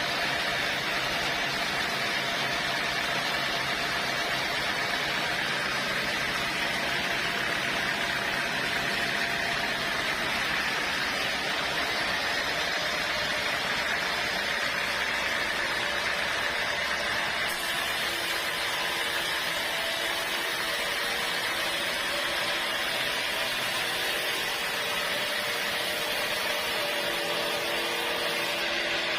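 Sawmill saw cutting a teak log: steady machine noise with a high whine and no breaks.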